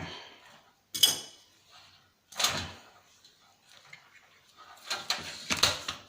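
Knocks and scraping clatter of plastic and metal parts being pulled and pried apart during disassembly of an old CRT TV/DVD combo. There is a sharp hit about a second in, another at about two and a half seconds, and a busier run of clattering near the end.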